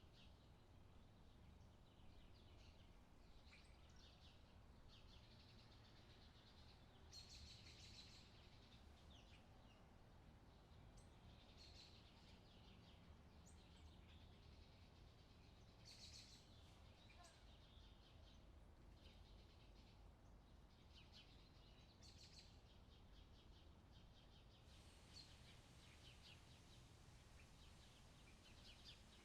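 Faint songbirds chirping and trilling on and off throughout, several birds overlapping, over a steady low background hum.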